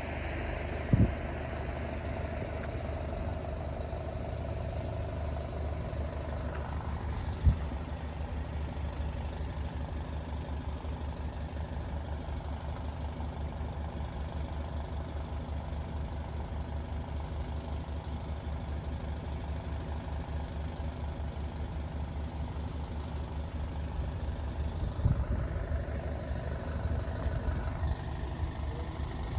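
Engine idling steadily, a low pulsing rumble, with two short knocks, one about a second in and one about seven seconds in.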